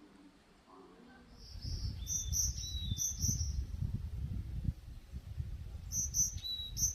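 A small bird chirping in quick short phrases, two bursts of song a few seconds apart, over the gusty low rumble of wind on the microphone that starts about a second and a half in.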